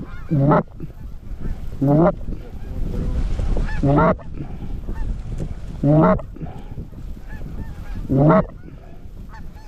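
Loud single goose honks, one about every two seconds, over fainter honking from a flock of geese further off. Gusty wind noise runs under them.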